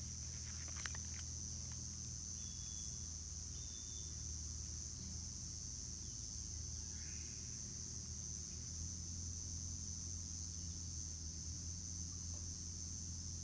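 Steady high-pitched insect chorus with a low rumble underneath, and a few faint clicks about a second in.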